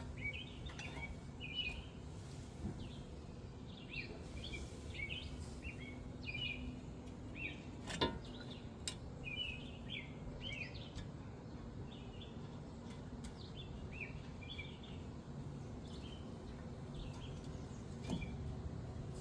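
Small birds chirping over and over above a steady low background noise, with a single sharp click about eight seconds in.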